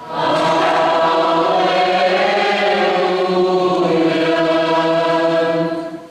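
Church choir singing a slow liturgical chant: one long phrase of held notes that fades out near the end.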